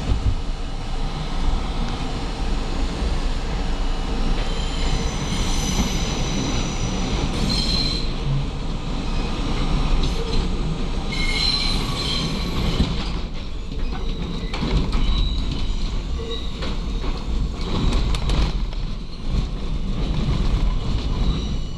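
R32 subway train running, with a steady rumble of wheels on rail and clicks over the rail joints. High-pitched wheel squeal comes in about five seconds in and again around the middle.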